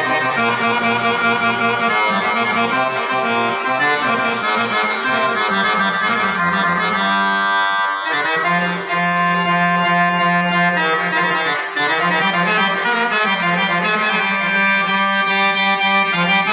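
Accordion playing a solo improvised taqasim, a flowing melodic line over sustained low bass notes.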